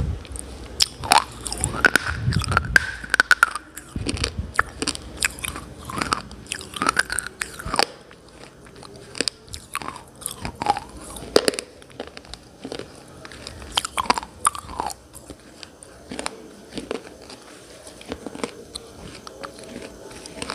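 A person biting and chewing hard, brittle chalky pieces, with many sharp crunches, closely packed in the first eight seconds and sparser after that.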